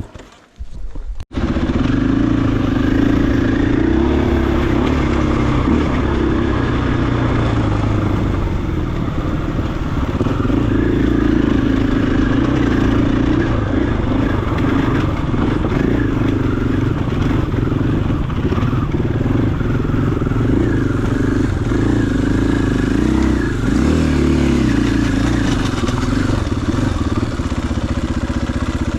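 KTM 500 EXC-F dirt bike's single-cylinder four-stroke engine running under way, its note rising and falling with the throttle. The sound drops out almost completely for about a second at the start.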